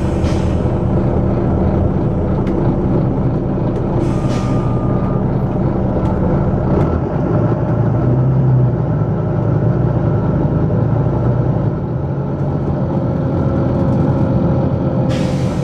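Volvo B9TL double-decker bus's six-cylinder diesel engine running with heavy thrash, its note changing about seven seconds in. Short hisses of compressed air from the bus's air system about four seconds in and again near the end.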